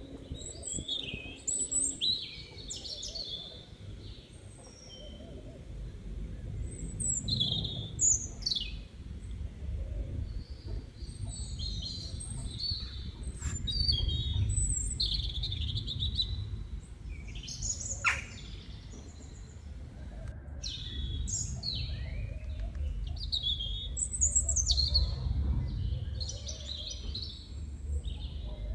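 Small birds chirping and calling on and off, with short chirps and quick falling whistles, over a steady low rumble.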